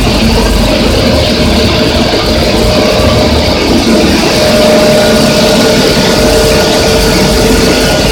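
Large 160 kW cooling-fan blower on a glass tempering line running at speed under an ABB ACS800 drive: a loud, steady rush of air with a few steady hums mixed in.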